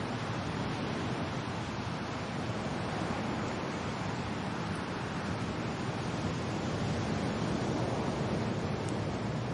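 Steady wind and rain, a continuous rushing noise heaviest in the low range, growing a little louder in the second half.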